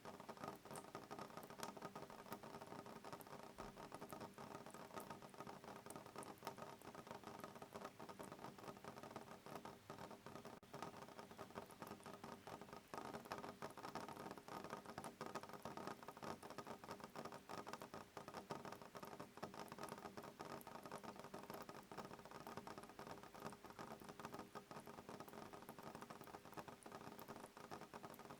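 Soft rain pattering faintly on a window pane: a steady, dense patter of small drops with no thunder.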